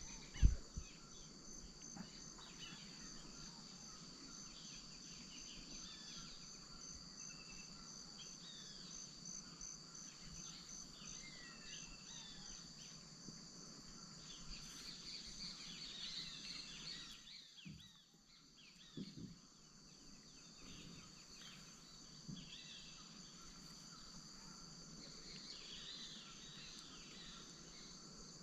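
Amazonian wetland insect chorus: steady high trilling with a chirp pulsing several times a second, with scattered bird calls. There is a sharp low knock about half a second in, and softer low thumps around two-thirds of the way through.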